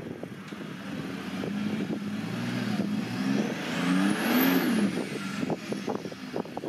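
Off-road 4x4 engine revving up and down in steps as the vehicle drives past, loudest about four and a half seconds in, then fading.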